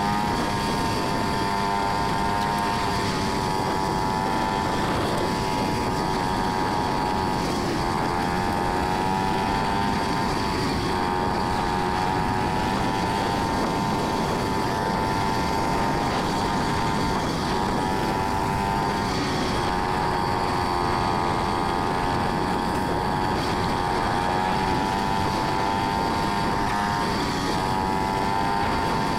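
2023 Yamaha XT250's air-cooled single-cylinder four-stroke engine running at a steady cruise on a gravel road, its pitch dipping briefly every few seconds.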